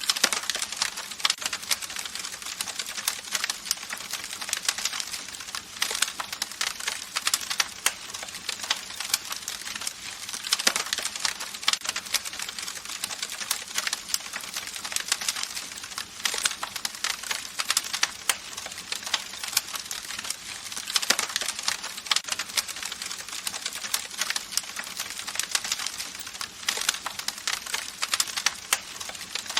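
Campfire crackling: a steady hiss of burning wood with many sharp, irregular pops and snaps from the burning wood.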